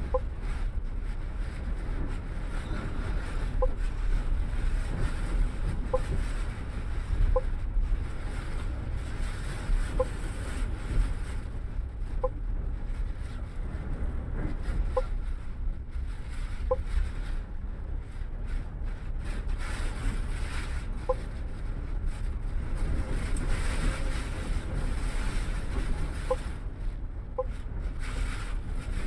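Cabin of a MAN double-decker bus in a storm: steady low engine and road rumble with wind gusting against the body. Short faint chirps sound every one to four seconds.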